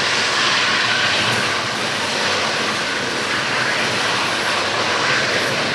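Loaded coal hopper cars rolling across a steel girder bridge: a steady rush of wheels on rail.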